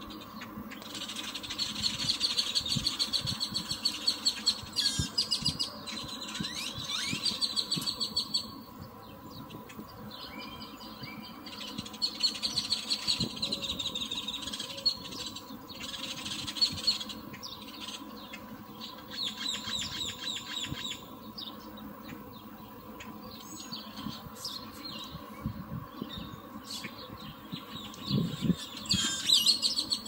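A bird chirping in rapid, high-pitched runs of notes. Each run lasts a second or a few, and about five runs come with pauses between them.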